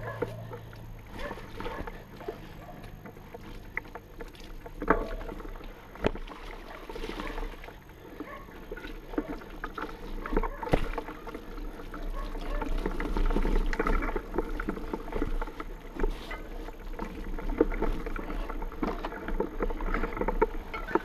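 Trek mountain bike clattering down a rough, rocky trail: frame and chain rattling with repeated knocks over stones and a steady rush of tyre noise. It is louder and busier in the second half.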